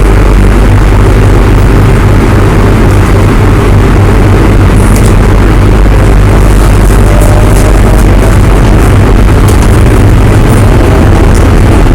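Running noise inside the motor car of a JR Hokkaido 733 series electric train with Hitachi IGBT-VVVF drive and N-MT731 traction motors: a loud, steady rumble of wheels on rail and running gear, with a faint rising whine about seven seconds in.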